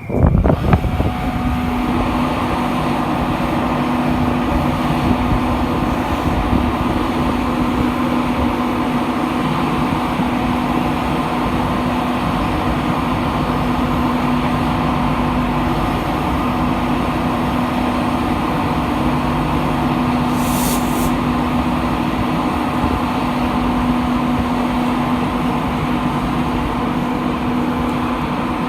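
A train's engine running steadily with a constant low hum, with a short hiss about twenty seconds in.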